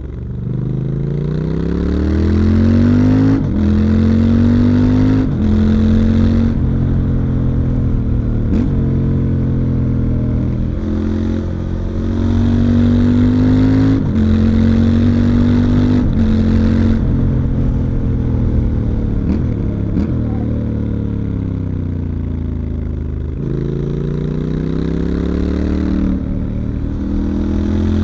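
Stock 2019 Triumph Scrambler 1200 XE's 1200 cc parallel-twin engine heard onboard under way. It pulls up through the gears, the revs rising and dropping at each upshift, runs at fairly steady revs, falls off over several seconds as the bike slows, then pulls away again near the end.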